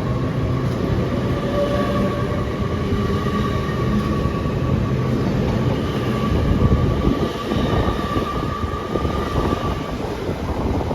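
A train running at a station, a steady high whine over a dense low rumble; the whine fades out near the end.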